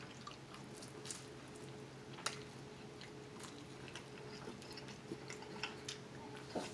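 Faint close-up chewing of a bite of fried egg roll, with soft crunches and mouth clicks scattered through; one sharper crunch about two seconds in.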